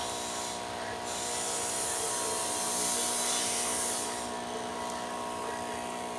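A small electric motor's steady buzzing hum with many overtones. A hiss joins it from about one to four seconds in.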